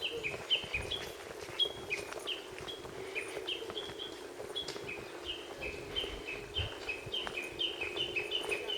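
Lesser cuckoo singing: short downslurred whistled notes, alternating between a higher and a lower pitch and repeating several times a second. A steady low hum runs underneath.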